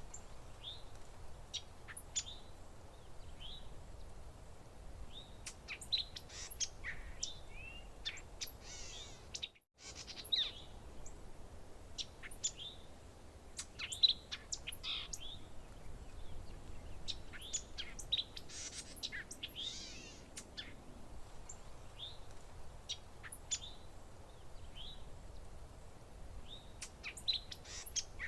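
Several songbirds chirping and calling in short, quick notes, some sweeping down in pitch, over a faint low background hiss. The sound drops out completely for an instant near the ten-second mark.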